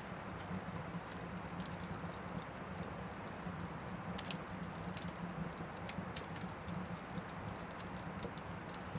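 Oak firewood burning in an Anevay Frontier Stove Plus wood stove: irregular sharp crackles and pops over a steady low hum of the fire.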